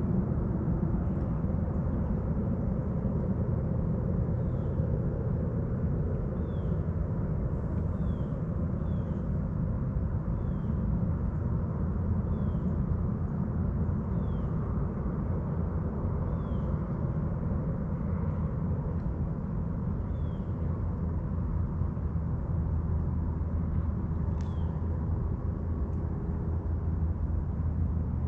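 Steady low rumble of a distant motor, with a bird repeating a short, high, falling chirp every second or two.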